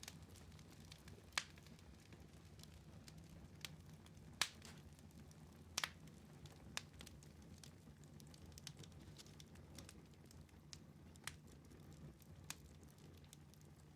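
Wood fire burning in a fireplace, crackling faintly with sharp pops at irregular intervals, over a steady low hum.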